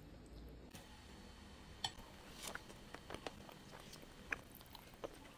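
Faint chewing and small wet mouth clicks of a person eating soft oyakodon of egg, chicken and rice from a spoon, the clicks scattered mostly from about two seconds in.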